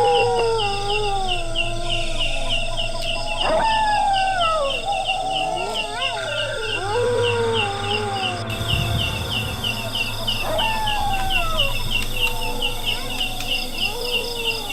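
Long drawn-out wailing howls, each falling in pitch, heard four or five times over steady rapid insect chirping of about three chirps a second and a low hum.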